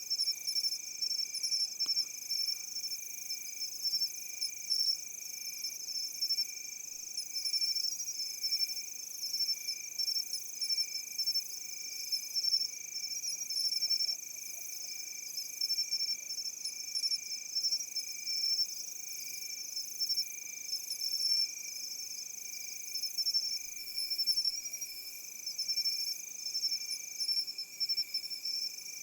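A chorus of grass insects such as crickets trilling steadily. Several shrill insect songs overlap at different pitches, one lower and steady, the higher ones pulsing rapidly.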